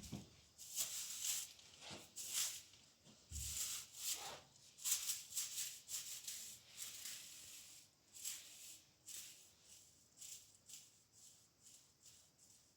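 A run of short, irregular rustling or scraping noises, thicker and louder in the first half and thinning out toward the end.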